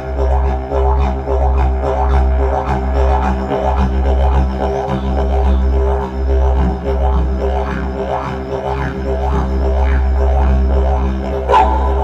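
Didgeridoo playing a continuous low drone with pulsing, rhythmic overtones.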